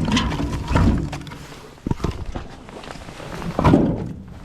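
Split firewood being handled: a few wooden knocks and thunks as logs are picked up and set down, with a sharp one about two seconds in and a louder one near four seconds.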